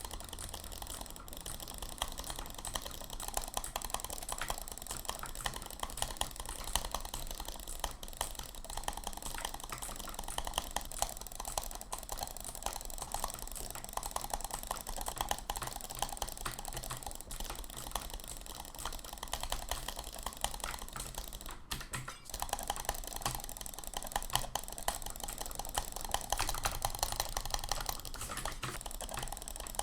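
Rapid, unbroken clicking, many small clicks a second, with no pauses.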